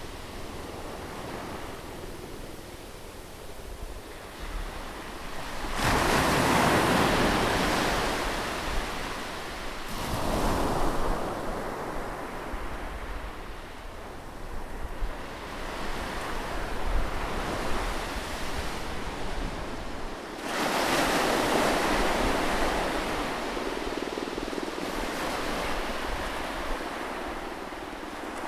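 Sea waves breaking close by on the shore, with three big waves crashing in suddenly, about six, ten and twenty seconds in, each washing out slowly into a steady hiss of surf.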